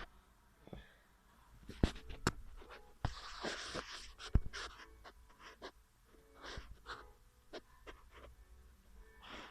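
Hand work on parts and wiring: a few sharp clicks and snaps in the first half, then short rasping scrapes coming about twice a second.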